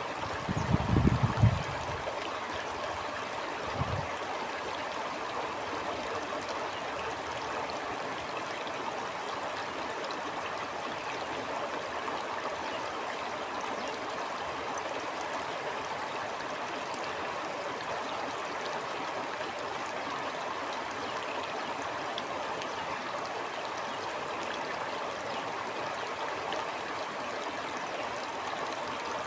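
Stream flowing steadily with an even rushing wash of water. About a second in there is a loud low rumble, with a shorter, weaker one near four seconds, like gusts of wind hitting the microphone.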